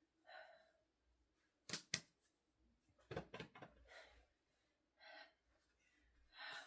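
A woman's breathing while she rests between core-exercise sets: a few separate breaths, with two sharp clicks about two seconds in and a few knocks a second later.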